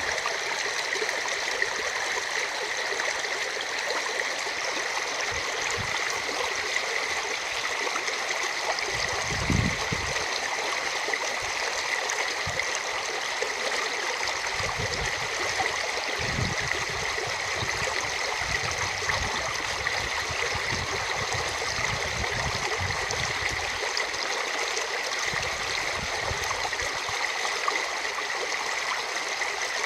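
River water rushing steadily through a wadi running full after heavy rain, a constant hiss of flowing water. Intermittent low rumbles come in about ten seconds in and again through much of the second half.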